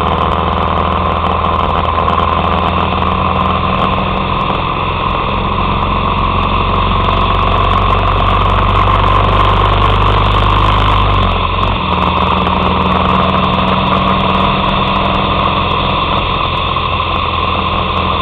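Harley-Davidson Sportster 883's air-cooled V-twin engine running steadily under way. Its note changes about two-thirds of the way through, then holds steady again.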